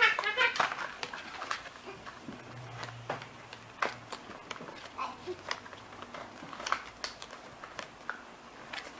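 Scattered light clicks and taps of thin cardboard being handled, as pieces are bent and popped out of a pop-out card sheet.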